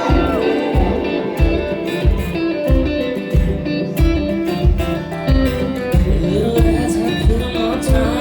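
Live band music: an instrumental stretch of electric guitar over a steady low beat, about a thump every 0.6 seconds, with no singing.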